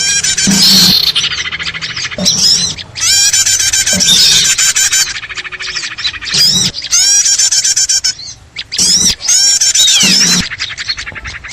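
Small-bird lure recording: a loud, busy chatter of several small birds calling at once, with fast trills and quickly repeated down-curving notes, coming in bursts with short gaps. It is the kind of noisy 'ribut' mix played to draw small birds in.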